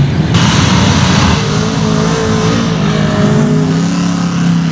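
Mega truck's engine running hard at high revs, its pitch slowly rising and falling. A loud rushing noise joins it about half a second in and lasts about a second.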